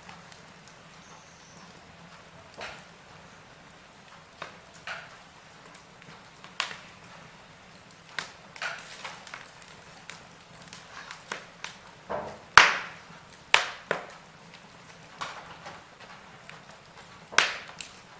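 Wood fire crackling in a fireplace: irregular sharp pops and snaps of varying strength over a faint steady hiss, with the loudest pops about twelve and a half seconds in and near the end.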